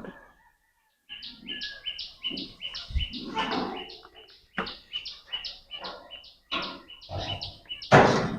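A bird chirping over and over, a quick high note about three times a second, with rustles and knocks of hands working rope and a loud rustle near the end.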